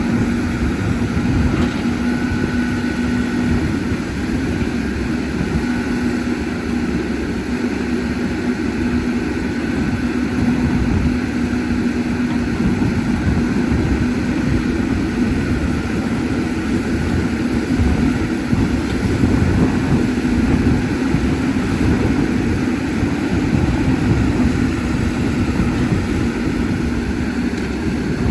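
Caterpillar 320D excavator's six-cylinder diesel engine running steadily under work, with a steady hum throughout.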